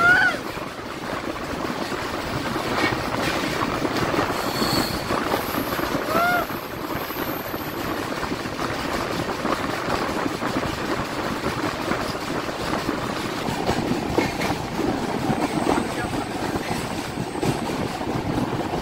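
Indian Railways LHB passenger coaches running on the track: a steady rolling rumble and rail noise, with a brief wheel squeal at the very start and another about six seconds in.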